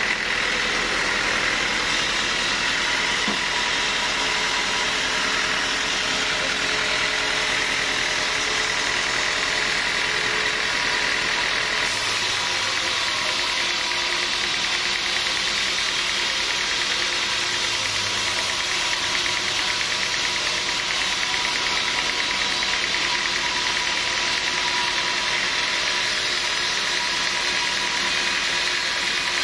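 Sawmill machinery running steadily with a continuous engine-like drone and a high whine; the sound shifts slightly about twelve seconds in.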